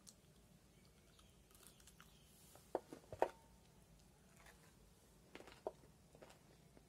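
A person chewing chicken bitten off the bone: faint, scattered mouth clicks and smacks, with a few sharper clicks about three seconds in and again a couple of seconds later.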